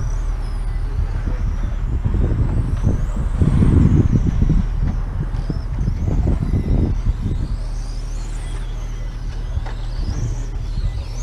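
Racing motorcycle engines revving and passing, their pitch rising and falling again and again, with wind buffeting the microphone.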